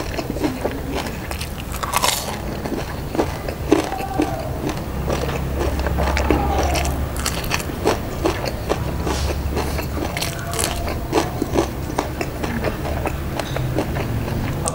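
Close-miked crunching and chewing of crispy deep-fried tofu (tahu garing), its crisp fried coating giving off many sharp crackles.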